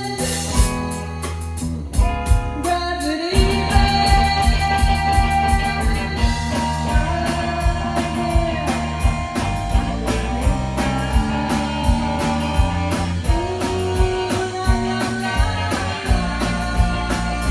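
Live rock band playing a spacey, psychedelic-leaning song: electric guitar over bass and a drum kit keeping a steady beat. The band thins out briefly about two seconds in, then the full band comes back in.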